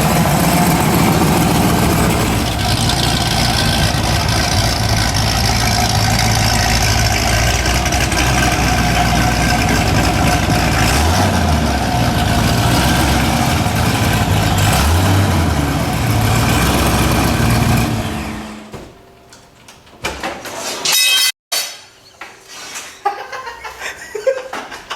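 A vehicle engine idling steadily, revved briefly twice, then shut off about three quarters of the way through.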